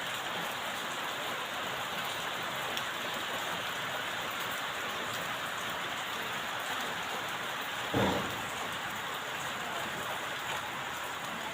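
Steady rain falling, an even hiss of drops. About eight seconds in there is one brief, louder thud.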